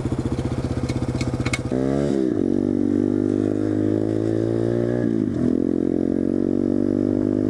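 SSR125 pit bike's single-cylinder engine running under way at low revs, then revving up about two seconds in and holding a steady higher note. The engine eases off briefly around five seconds in and picks up again.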